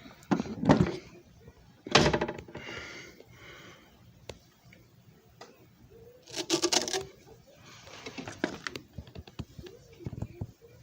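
Scattered clicks and knocks of objects being handled. The louder ones come about two seconds in and in a short clatter about six and a half seconds in.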